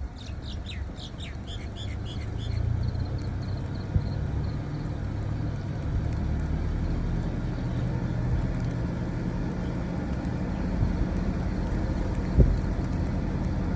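A bird chirps a quick run of short, falling notes in the first two seconds over a steady low rumble. Two sharp knocks come about four seconds in and near the end.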